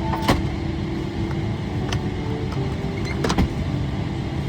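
Steady low rumble of the Boeing 777-300ER's cabin, broken by two sharp clicks: one just after the start and one about three seconds in.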